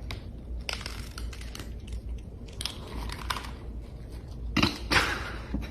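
Bouts of crunching and crackling, loudest about five seconds in, over a steady low hum.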